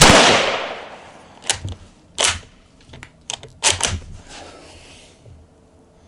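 A Yugoslavian M48 Mauser bolt-action rifle fires a single 8mm Mauser round, the report dying away over about a second. Then a series of short, sharp metallic clacks as the bolt is worked to eject the spent case and chamber the next round.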